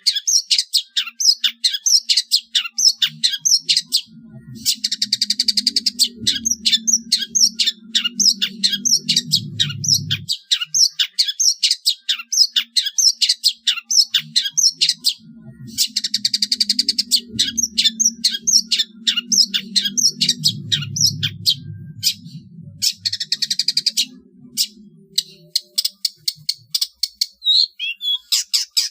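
Long-tailed shrike (cendet) singing a fast series of sharp, high, chattering notes, several a second, with short pauses. Twice a low hum runs under the song for several seconds.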